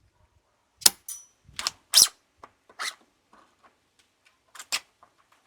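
A series of separate sharp clicks and clacks from handling and working the action of a 3D-printed gas-powered airsoft sniper rifle, the loudest about two seconds in; one click about a second in has a brief high ring.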